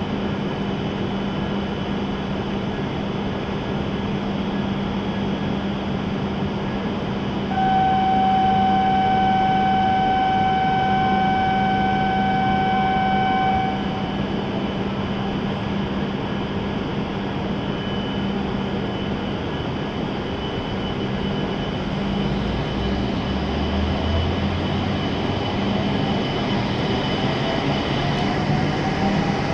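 Standing E7-series Shinkansen train humming steadily at the platform, while a single steady warning tone sounds for about six seconds as the train doors and platform gates close. Near the end the train begins to pull away, with a low rumble and a faint rising electric whine from its traction motors.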